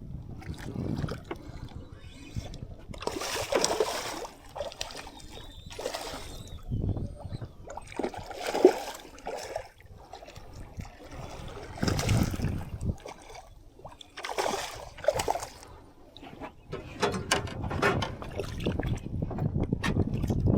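Irregular splashing and sloshing of water with bumps and rustles as a hooked spotted seatrout is fought and brought to the boat. There is one sharp hit about nine seconds in.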